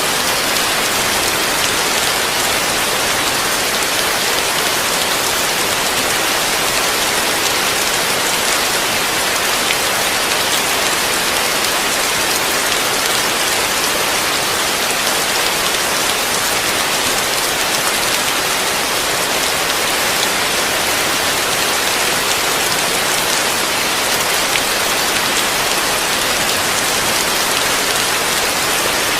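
Heavy rain falling steadily on a roof, heard from beneath it as a dense, even hiss.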